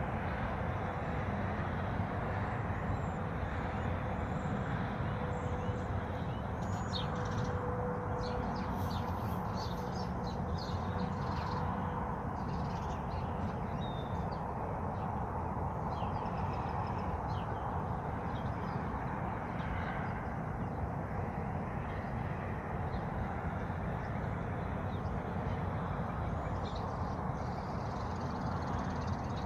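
Steady rush of falling water with birds calling over it: a cluster of short calls from about 7 to 12 seconds in, and more near the end.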